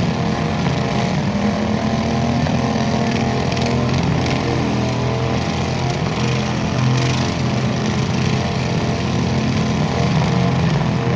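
Small garden-tractor engine running steadily and loudly, with no let-up.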